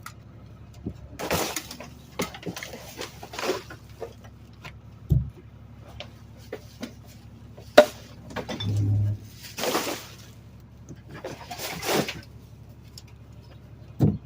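Garbage truck running at idle, a steady low hum, with scattered sharp knocks and clicks and several short rushing noises.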